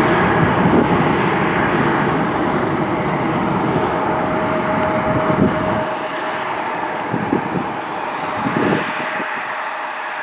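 Jet airliner engine noise: a loud rumble with a steady whine on top, fading as the aircraft moves away, the deep rumble dropping out a little past halfway.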